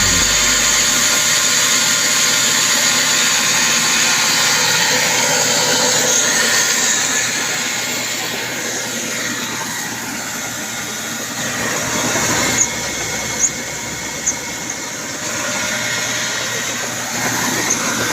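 Machinery running with a steady high hiss and whine, with a few sharp clicks in the second half.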